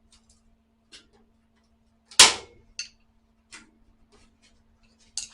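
Metal tools and sheet steel being handled in the repair of a car's rusted spare wheel well: scattered light clicks and taps, with one loud metallic clank about two seconds in. A faint steady hum runs underneath.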